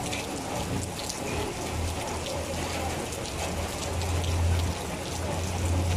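Heavy rain falling on a wet road, a steady hiss with scattered drop ticks. A low rumble grows stronger through the second half.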